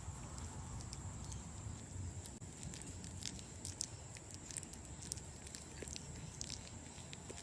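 A bat chewing a slice of banana: quick, irregular small clicks and smacks over a steady low hum.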